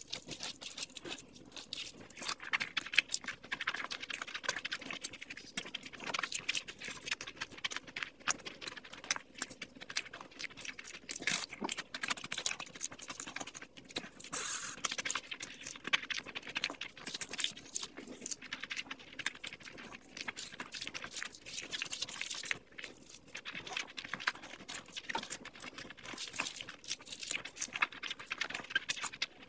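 Close-miked wet chewing and lip smacking of someone eating curry and rice by hand: a dense, unbroken run of sticky clicks and smacks.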